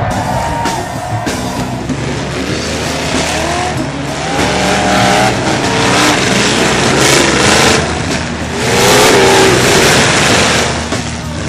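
Car engines revving with squealing tires, over background music. The wavering whines are loudest around the middle and again about nine seconds in.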